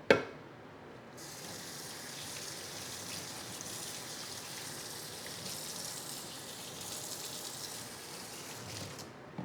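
A sharp knock, then a kitchen tap running steadily into a sink for about eight seconds before it stops.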